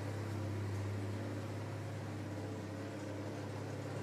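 1992 Ford Ranger engine idling steadily through its exhaust, which has the tailpipe cut 4 inches shorter so it barely reaches into the exhaust tip.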